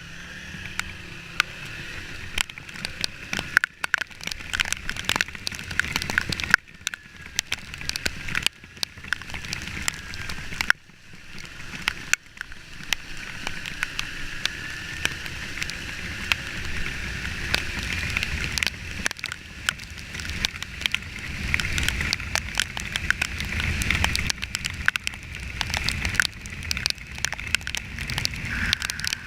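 Raindrops ticking rapidly and unevenly against a motorcycle-mounted camera while riding a Kawasaki Ninja 300 in the rain. Underneath, the bike's engine note rises and falls over a steady rush of wind and wet road noise.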